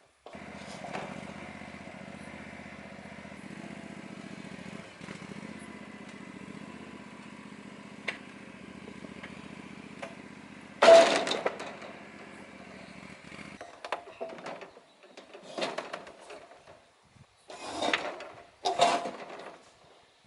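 A small motor runs steadily and cuts off about thirteen seconds in, followed by several loud knocks: metal parts being handled during sawmill assembly.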